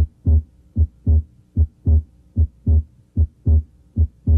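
Human heart sounds through a stethoscope placed over the pulmonary focus: a steady lub-dub, the first and second heart sounds in close pairs, repeating a little under once a second (about 75 beats a minute).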